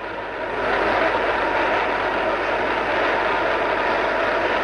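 Large congregation praying aloud all at once: a loud, steady roar of many voices speaking over each other, which swells up about half a second in.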